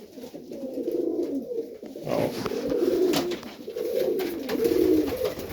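Serbian Highflyer pigeons cooing in their loft, one warbling coo after another with hardly a break, and a few sharp clicks about two and three seconds in.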